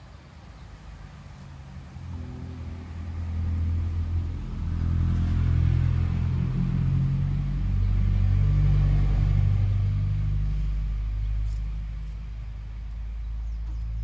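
A vehicle engine running with a low hum that grows louder over several seconds and then fades away, as a vehicle passing by.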